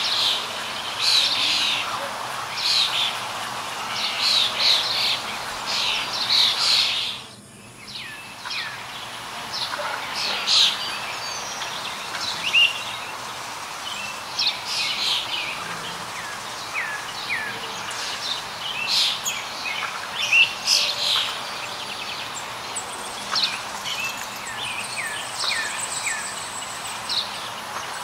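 Songbirds chirping and calling busily, with many short high notes overlapping, and in the second half a series of short downward-sliding whistles. The sound dips out briefly about seven seconds in.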